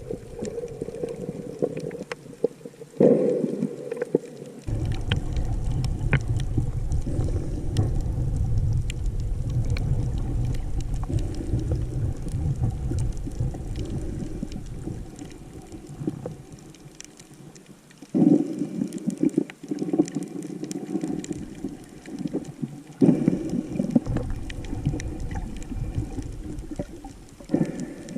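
Muffled underwater sound picked up by a camera in the sea during snorkeling: a low water rumble and sloshing that swells suddenly several times.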